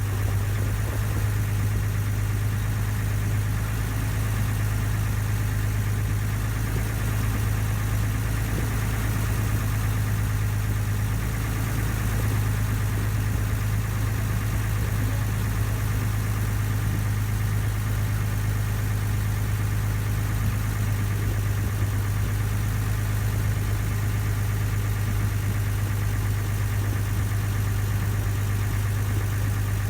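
Ferry boat's engine running steadily under way, a constant low hum heard on board.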